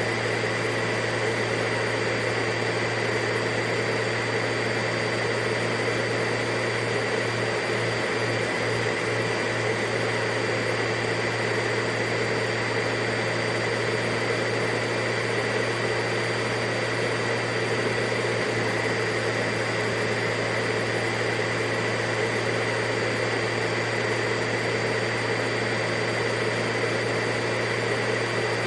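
Vacuum cleaner motor running steadily, a constant whooshing hum with a high whine in it.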